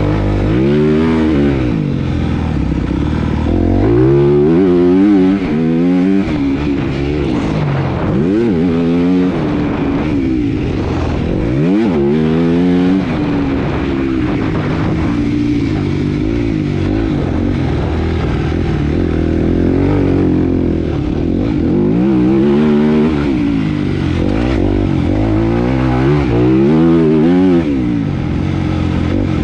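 Motocross motorcycle engine racing, revving hard and backing off again and again, its pitch climbing and dropping every few seconds.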